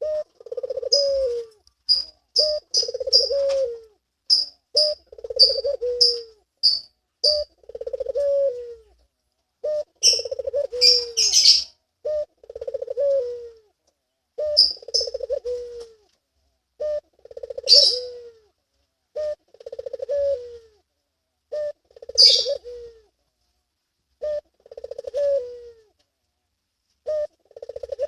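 A male puter (Barbary dove) cooing in breeding condition: a pulsing, rolling coo phrase that ends in a falling note, repeated every couple of seconds. Short high chirps from small birds are mixed in.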